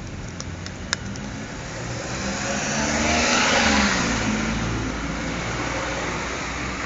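A car driving past, its engine and tyre noise swelling to a peak about three and a half seconds in and then fading away. A single sharp click about a second in.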